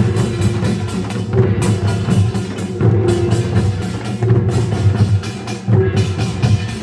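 Korean nongak farmers' band percussion playing: dense, fast metallic clatter of kkwaenggwari small gongs over janggu and buk drums, the high clatter breaking off briefly about every one and a half seconds in a repeating rhythmic cycle.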